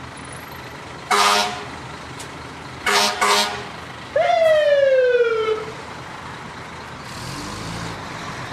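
Fire truck sound effect: one horn blast about a second in, two quick toots around three seconds, then a siren wail that falls in pitch over about a second and a half, over a steady background rumble.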